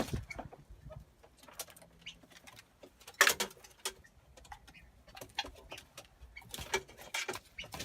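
Scattered short, sharp calls and clicks from backyard birds, the loudest about three seconds in.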